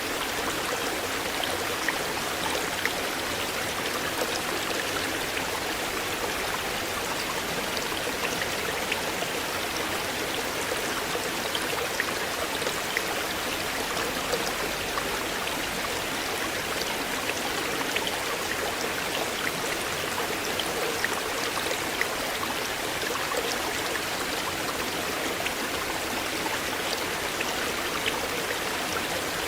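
River water flowing steadily over a shallow bed, an even rush with many small splashes and drips throughout.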